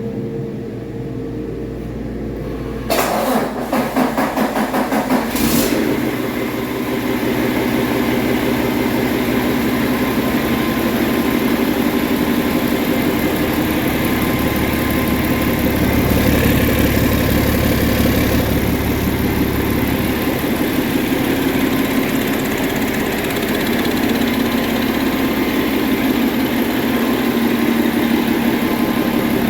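Paccar MX13 12.9-litre inline-six diesel engine on a test run. The starter cranks it in even pulses about three seconds in, the engine catches about two seconds later, and it settles into a steady idle.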